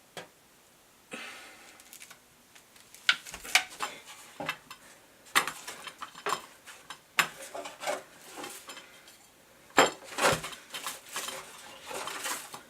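Irregular clinks, taps and knocks of painting tools being handled and set down, with a soft brushing scrape about a second in.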